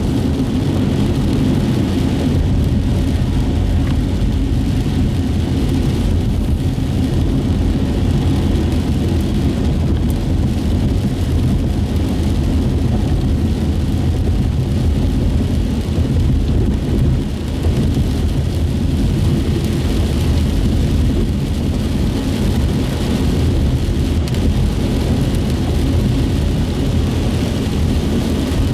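Steady road noise heard from inside a moving car: a constant low rumble of engine and tyres on wet pavement, with a faint hiss of tyre spray above it.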